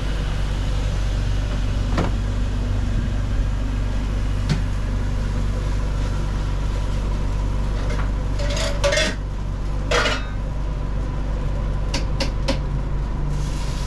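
Steady low hum of food-truck kitchen machinery running, with a faint steady whine over it. Metal utensils and pans clatter a few times in the second half.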